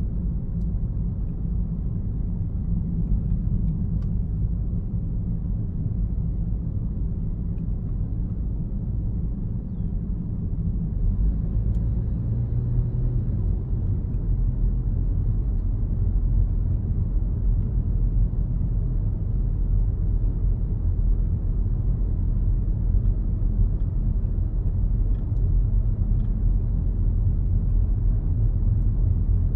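A car driving on a road: a steady low rumble of engine and tyres, growing a little louder about eleven seconds in.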